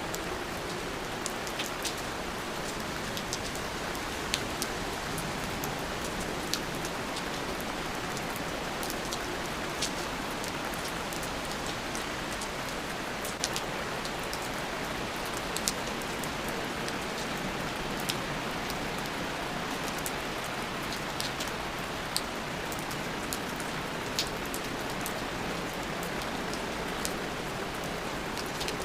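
Steady rain falling, an even wash of rain noise with many sharp drips and droplet ticks scattered through it.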